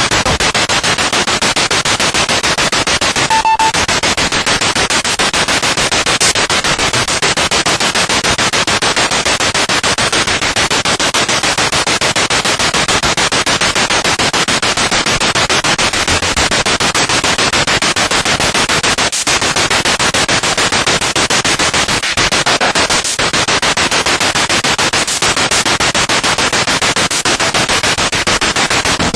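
Spirit box radio sweeping rapidly through stations: a loud, steady wash of static chopped by the scan into a fine, rapid flutter. A short beep-like tone sounds about three and a half seconds in.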